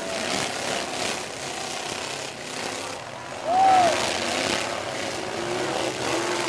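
Demolition derby truck engines running amid a continuous din. A short high call that rises and falls comes about three and a half seconds in and is the loudest moment.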